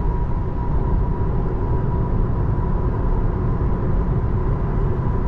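Steady road and tyre rumble heard inside the cabin of a 2024 Tesla Model 3 driving on wet roads in the rain, with a faint steady whine running through it.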